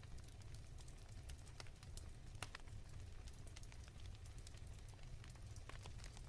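Wood fire crackling softly: irregular small pops and snaps, a few each second, over a low steady rumble.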